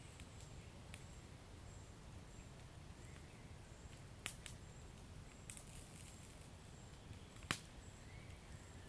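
Wood fire crackling faintly, with a few sharp single pops, the loudest about seven and a half seconds in, over a low steady rumble.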